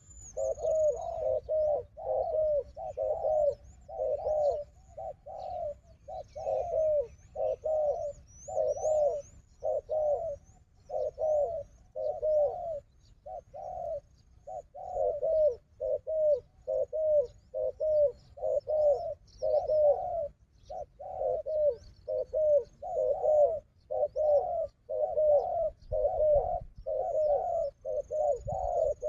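Spotted dove cooing over and over, short low coos following one another with only brief gaps, with faint high chirps of small birds above.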